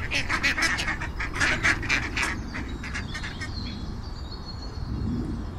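Duck quacking in a fast run of short quacks, about five a second, that stops a little over two seconds in.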